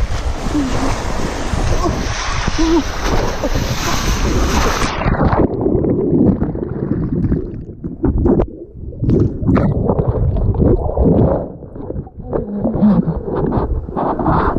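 Rushing water on a natural rock water slide, with wind on the microphone. About five seconds in, the sound turns abruptly muffled, leaving uneven low rushes and splashes.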